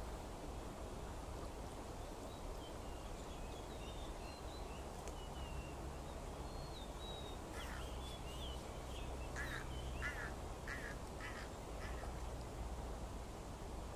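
Birds calling over steady outdoor background noise: thin high chirps first, then from about halfway a run of about six short, harsh calls, each roughly half a second apart.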